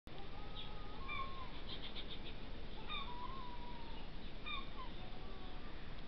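Faint bird calls: a few short whistled and gliding notes and a quick run of chirps, over a steady hiss.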